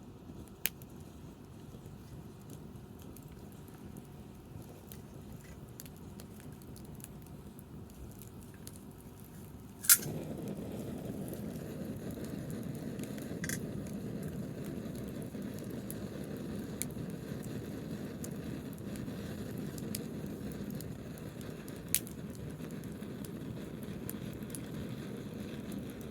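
Wood campfire crackling, with scattered sharp pops over a low rushing noise. The loudest pop comes about ten seconds in, and after it the low rushing grows louder and stays so.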